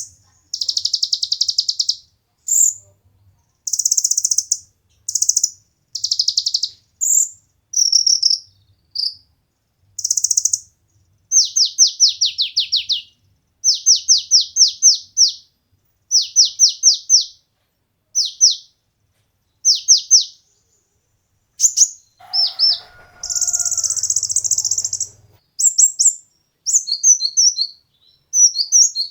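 A kolibri ninja sunbird singing in a fast, high-pitched series of short bursts: buzzy trills, then quick runs of descending notes, with brief pauses between phrases.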